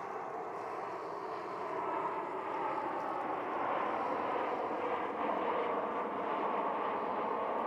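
Jet airliner's engines, a steady rushing noise that gets louder about two seconds in as the plane comes nearer.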